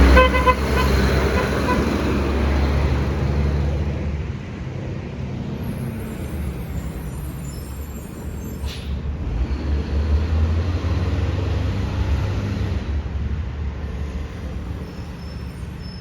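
Side-loader garbage truck's diesel engine running, easing off after about four seconds and building again near the middle, with a short air hiss about nine seconds in.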